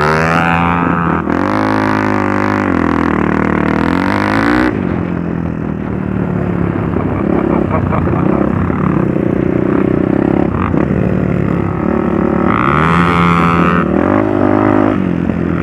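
Trail motorcycle engine revving up and down, its pitch rising and falling every second or two.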